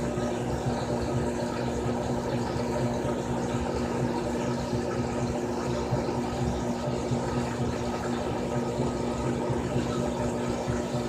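Frigidaire Gallery Series top-loading washing machine running through a cycle: a steady motor hum with water sloshing and pumping.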